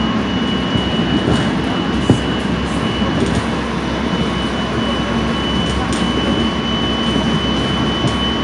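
Running noise inside a Korail Line 4 electric commuter train (341000-class set) between stations: a steady rumble of wheels on rail with a thin high whine held throughout. A single sharp click comes about two seconds in.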